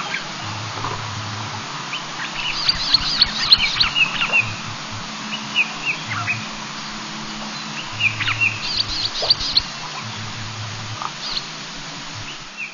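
Several wild birds calling, in clusters of short, sharp chirps and squawks, over a steady background hiss with a faint low hum that comes and goes.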